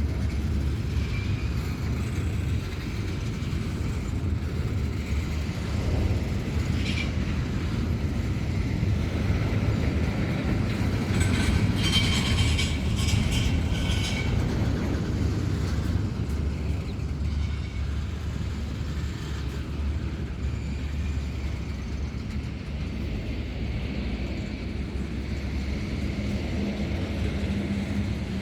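Empty coal train rolling past, its wagons giving a steady low rumble, with a spell of high metallic squealing and clatter about eleven to fourteen seconds in.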